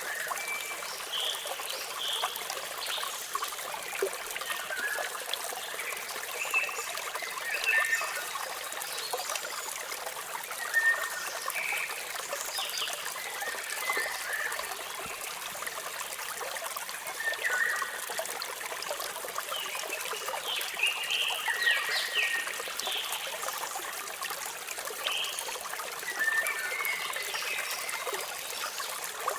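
Waterfall water trickling and splashing steadily, with short bird chirps scattered throughout.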